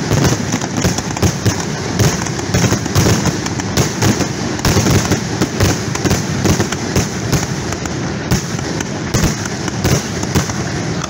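Aerial fireworks display: a dense, continuous barrage of shell bursts and crackles, the booms coming many times a second and overlapping.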